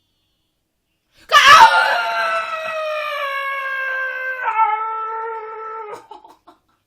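A woman's long, very loud anguished scream, starting suddenly about a second in and held for nearly five seconds as its pitch slides slowly down, breaking once near the end: a cry of frustration at a missed chance.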